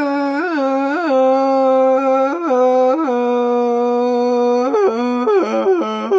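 A single pitched voice holding long, drawn-out wailing notes, with short upward bends of pitch and a quicker wavering stretch near the end.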